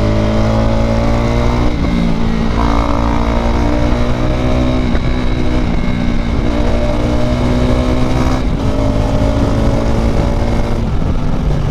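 KTM RC 390's single-cylinder engine with an Akrapovič exhaust, pulling through the gears under acceleration. The pitch climbs, then drops with a gear change about two seconds in and again about eight seconds in.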